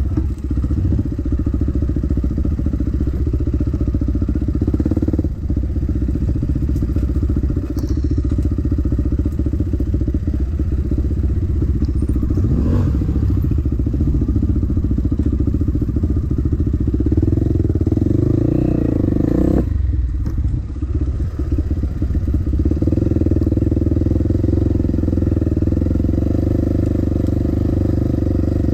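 Dirt bike engine running under way, its pitch rising and falling with the throttle, easing off briefly about two-thirds of the way through before picking up again.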